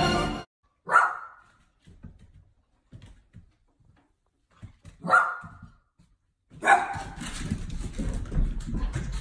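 A dog barking: single separate barks about a second in, about five seconds in and just under seven seconds in, the last one followed by ongoing room noise.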